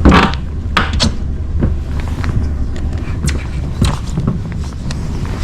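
Wind rumbling on the microphone in a rainstorm, with scattered short knocks and taps from handling gear on a boat. The loudest knock comes right at the start.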